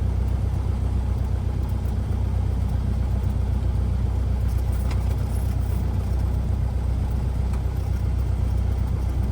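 Cessna 172R's four-cylinder Lycoming engine and propeller running steadily at low power, a low, even drone heard from inside the cockpit.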